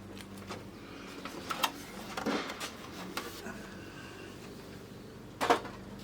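Scattered clicks and knocks as a boombox's cassette deck and its wire plugs are handled and worked loose, with a sharp click near the end as the loudest.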